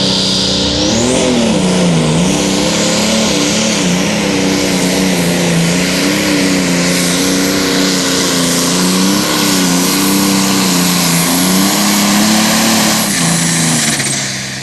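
Turbocharged diesel engine of a John Deere super stock pulling tractor running at high RPM under load, with a high turbo whine that rises about a second in. The engine pitch wavers up and down through the pull, then drops off and the sound falls away near the end.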